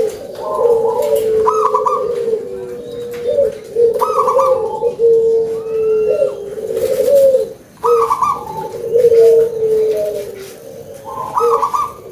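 Zebra dove (local perkutut) cooing: a loud, repeated song phrase of quick higher notes followed by a longer low coo, given about four times.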